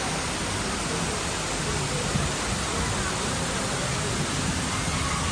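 Water cascading steadily down a multi-storey indoor mall waterfall, an even rushing noise.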